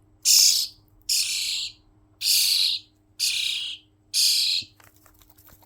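Baby bird giving harsh, hissy begging calls while being hand-fed: five calls of about half a second each, roughly one a second, stopping near the end.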